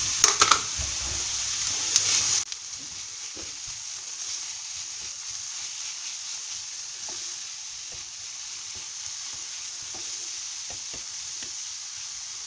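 Sliced onion and grated carrot sizzling in oil in a frying pan while being stirred with a wooden spatula, with soft taps and scrapes of the spatula against the pan. The sizzle is louder at first and drops suddenly to a quieter steady hiss about two and a half seconds in.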